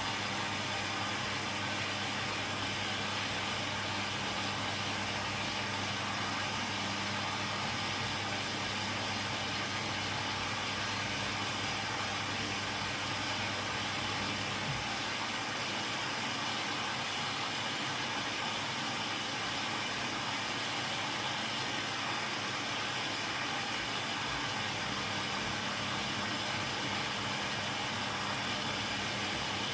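Zanussi DL22 front-loading washing machine running a 90 °C boil wash: a steady hum and noise, with the low hum fading about halfway through.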